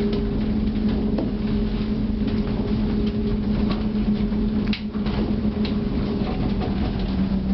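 Steady low hum and rumble inside a moving aerial tramway cabin, with a few faint clicks.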